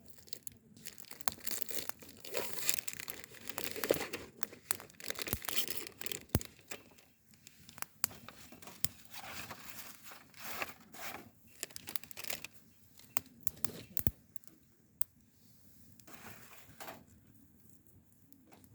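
Crinkly material being handled at close range: irregular rustling and crumpling with sharp clicks, busier in the first half of the stretch and sparser afterwards.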